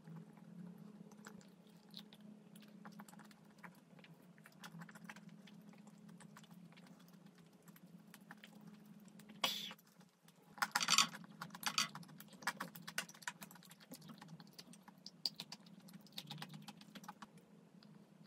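Close-miked mouth sounds of someone chewing a soft chocolate dessert, with many small crisp, clicky smacks. A few louder crackly noises come about halfway through.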